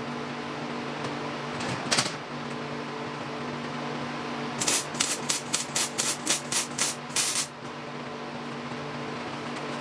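MIG welder laying short stitch welds on thin galvanized 16-gauge tubing: one brief burst about two seconds in, then a quick run of about a dozen short bursts, some four a second, from about halfway to three quarters of the way through. A steady hum runs underneath.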